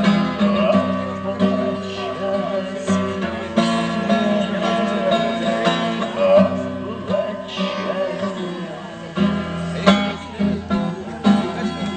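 A voice singing to a strummed acoustic guitar, the closing refrain of a bard song repeated; the sung line fades out about seven seconds in and the guitar strums on alone with sharper strokes near the end.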